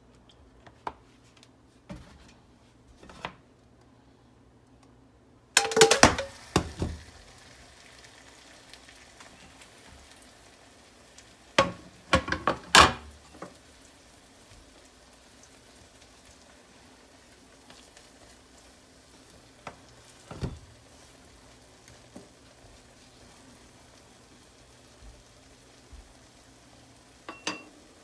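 Egg pancake with onion and bell pepper frying in oil in a nonstick pan: a steady sizzle that starts suddenly about five seconds in, after a few light clicks. Short clusters of clattering knocks of a utensil against the pan come several times.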